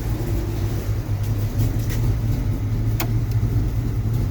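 Car engine idling steadily through a straight-piped exhaust with an X-pipe and the catalytic converters cut off, a low even drone. A single sharp click about three seconds in.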